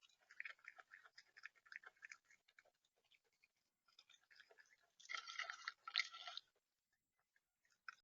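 Seed being pecked and crunched on a bird feeder close to the microphone: a run of quick clicks and scratches, then a louder burst of crunching about five seconds in.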